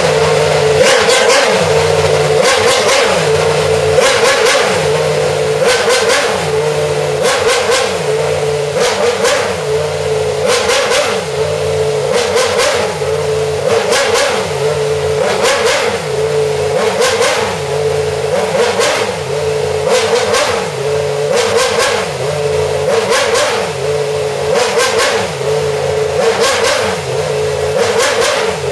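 Alpine Formula 1 car's engine running on a steady idle and revved in short, evenly spaced blips, roughly one a second.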